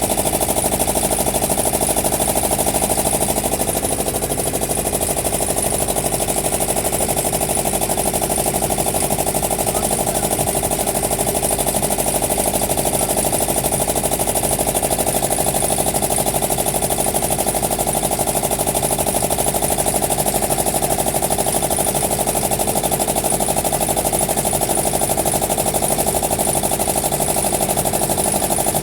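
Wooden boat's engine running steadily aboard, a fast even pounding with no change in speed.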